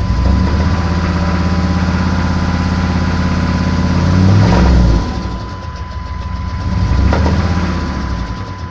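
GM 6.5 L turbo-diesel V8 revved up and held steady for about four seconds, dropping back to idle near the middle, then blipped again briefly; the engine has a knock that the owner suspects is either a stuck injector or rod knock.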